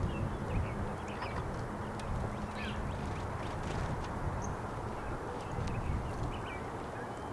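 Birds calling: short high chirps scattered throughout, over a steady low rumble.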